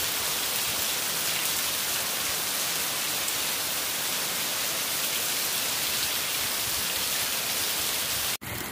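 Heavy rain pouring down onto a paved yard, a dense, steady hiss that breaks off abruptly near the end.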